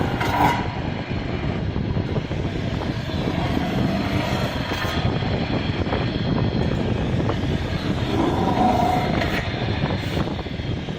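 Automatic CNC metal spinning machine running: the spindle turning a metal blank while the roller presses it into a cake pan, a steady rumbling noise with brief higher-pitched tones near the start and again about eight seconds in.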